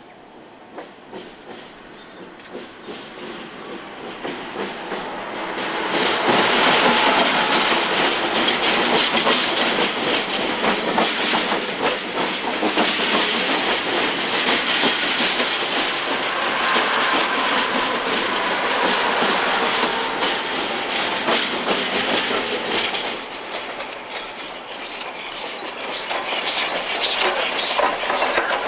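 A train of KiwiRail DX-class diesel locomotives and following rolling stock rolling slowly past at close range, wheels clattering over the rail joints. The sound builds over the first few seconds as the locomotives draw level, stays loud, and eases briefly before rising again near the end.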